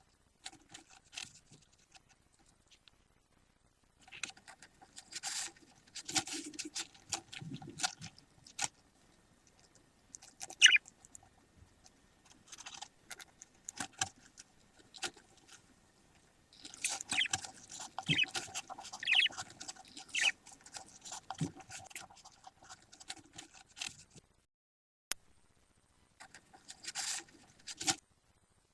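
Budgie chicks moving about and scratching, a run of irregular rustles and scrapes in bursts with short pauses, with a few brief high squeaks.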